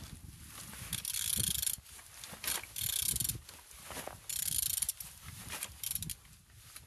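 Opel A16XER 1.6-litre four-cylinder engine being turned over by hand at the crankshaft, in four rasping mechanical strokes about a second and a half apart. The engine turns freely and is not seized.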